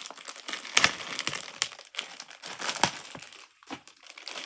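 Plastic Pop Tube fidget toys being stretched and squeezed, their ribbed tubing crackling with a few sharp pops.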